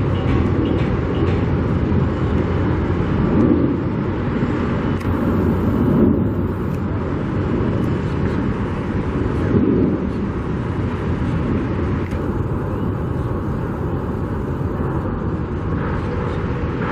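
Steady outdoor rumble like road traffic, swelling briefly three times.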